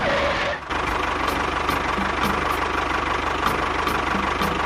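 Small engine running steadily with an even, rapid chugging, briefly dipping well under a second in.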